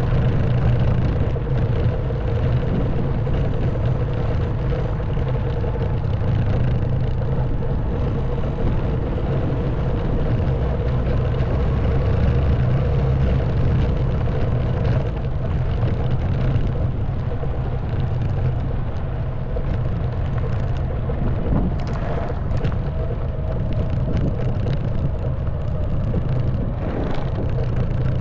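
Honda Wave 110cc single-cylinder four-stroke motorbike engine running steadily while riding, with wind noise. A few short clicks or clatters come in past the middle.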